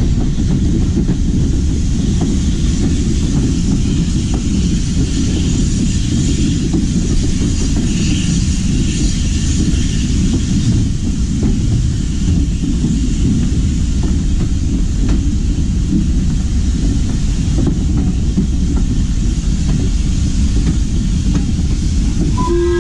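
Passenger train carriage running along the track: a steady rumble of wheels on rail with faint clicks over the rail joints. A steady pitched tone sets in just at the end.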